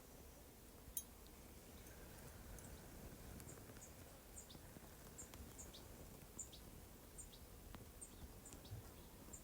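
Near silence with a small bird's faint, short high chirps repeating about once every second or less. There is a single soft click about a second in.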